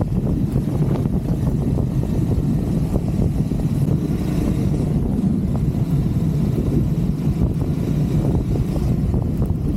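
Triumph Scrambler 400 X's single-cylinder engine running steadily while riding, under a steady low rumble of wind and road noise.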